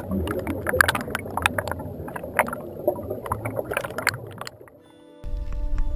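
Water splashing and sloshing around a kayak in irregular strokes over a low rumble, fading out about four and a half seconds in. Music with steady held tones starts near the end.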